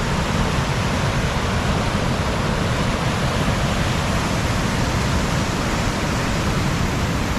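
Loud, steady roar of a river in flood, its high fast water rushing and churning without letup.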